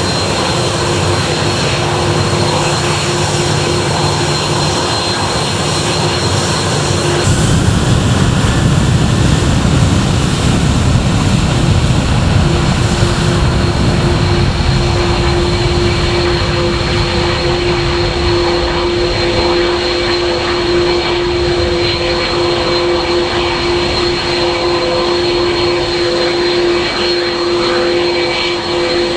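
Departing airliner's engines running loud and steady with a high whine, a deeper rumble swelling about seven seconds in, then easing off.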